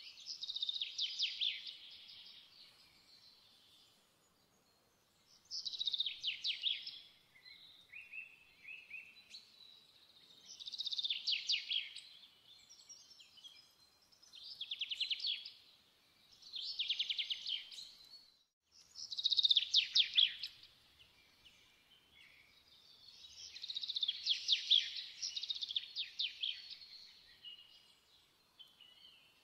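A small songbird singing: short, high, fast-trilled phrases, each a second or two long, repeated every few seconds, one longer run near the end.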